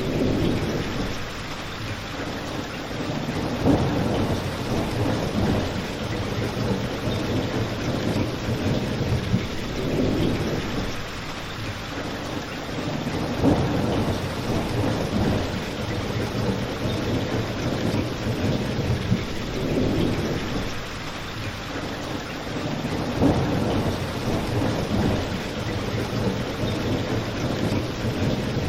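Steady rain mixed with a crackling fireplace. A low rumble swells and eases every few seconds, with a few sharp pops on top.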